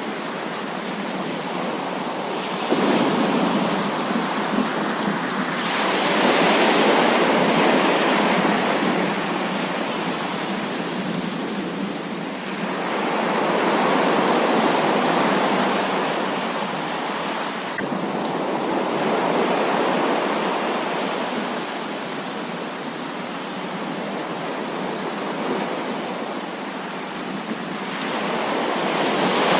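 Heavy rain with a steady hiss and thunder rolling through it. The sound swells louder and fades back several times, with a sharper rise about six seconds in.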